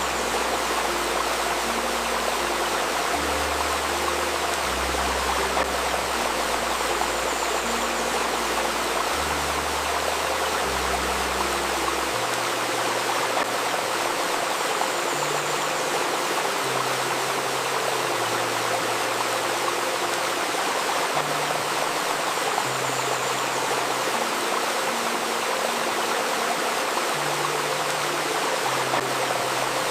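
Steady rushing and babbling of a stream, with a bed of soft ambient music underneath: low held notes that shift pitch every second or two.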